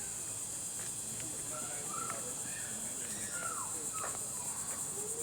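Steady high-pitched insect chorus, crickets or similar, with a few short bird chirps scattered through it.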